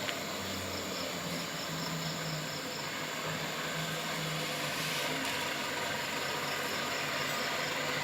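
Dump truck's diesel engine idling with a steady low hum, while insects chirp faintly.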